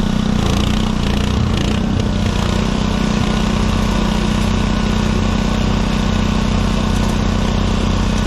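Engine idling steadily and close by, with an even, unchanging low hum.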